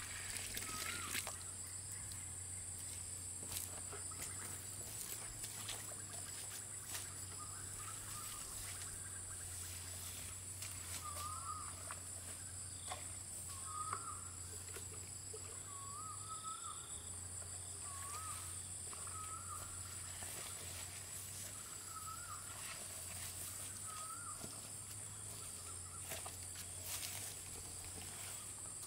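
Outdoor ambience: a steady high-pitched insect drone over a low steady hum, with a bird giving short repeated chirps every second or two through the middle stretch, and a few faint clicks.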